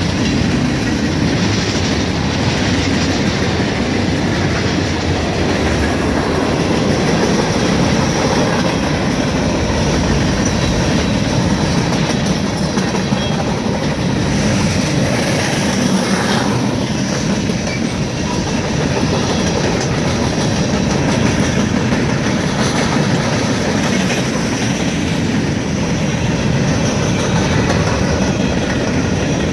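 Norfolk Southern freight train rolling past, its cars' wheels clacking over the rail joints in a steady, unbroken rumble.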